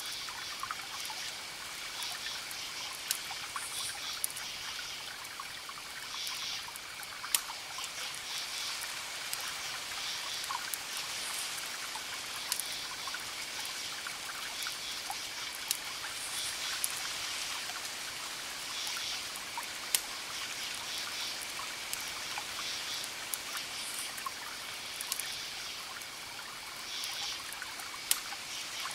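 Wood fire crackling over a steady hiss, with a sharp pop every few seconds. Faint, high, pulsed chirping repeats above it.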